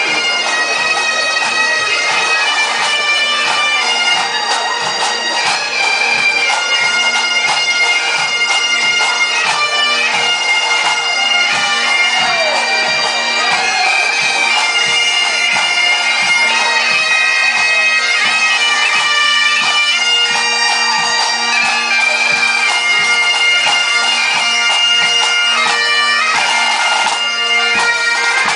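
Bagpipes playing a tune over their steady drones, with a regular low drum beat underneath.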